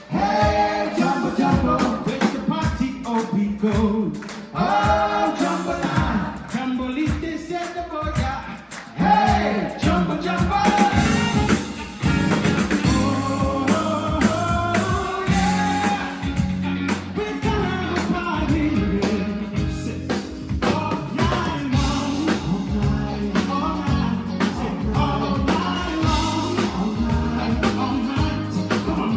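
Live rock band playing a song, with a steady drum-kit beat under sung vocals.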